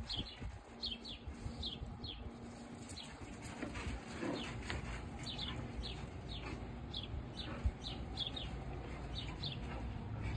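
Small birds chirping repeatedly: short, high notes that fall in pitch, one or two a second. Under them is a low rumble and scuffling as two chow chow puppies wrestle on gravelly dirt.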